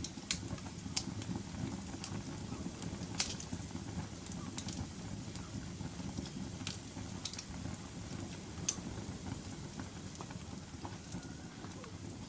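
Wood fire burning in a fireplace: a steady low rumble of flames with sharp crackles and pops at irregular moments, about one a second, the loudest about three seconds in.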